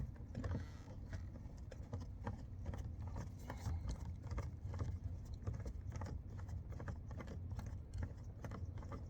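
Light, irregular clicks and taps of a hand tool working the single bolt that holds a pickup's door panel, over a steady low hum.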